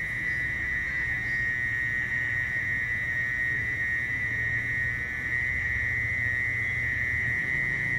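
Mole cricket (orong-orong) calling: a long, shrill, unbroken trill held at one steady pitch.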